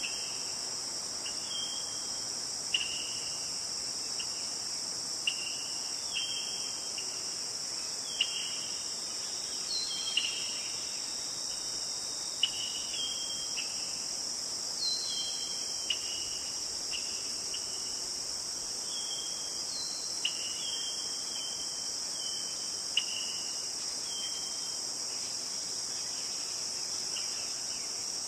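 Steady high-pitched chorus of insects, with short bird chirps repeating every second or two over it.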